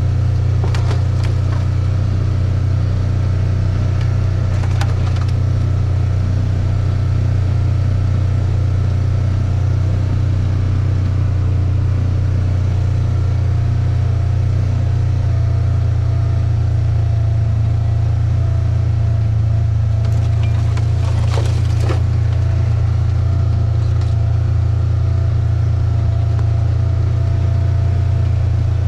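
Steady low drone of a car driving, its engine and road noise heard from inside the cabin, with a few faint clicks and rattles.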